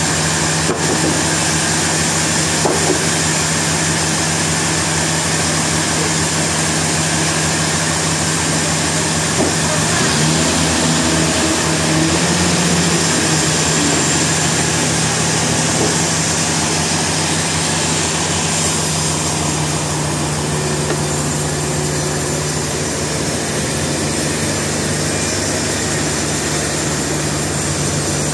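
Sawmill machinery running steadily: a continuous low engine hum under a dense hiss. About ten seconds in the pitch briefly slides up and down, and the high hiss eases a little after about eighteen seconds.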